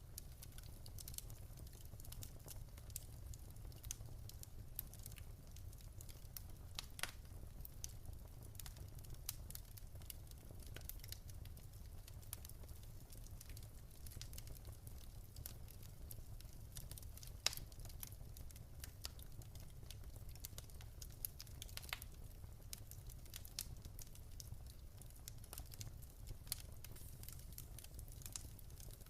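Wood fire in a fireplace crackling: a continuous scatter of small pops and snaps, with a few louder snaps, over a low steady rumble of the burning.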